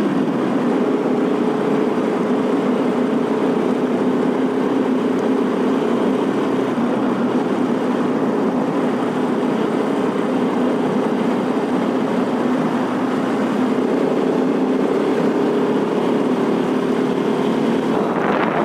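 Bajaj Pulsar RS 200's single-cylinder engine running at a steady cruising speed, with a steady hum under a rush of wind and road noise.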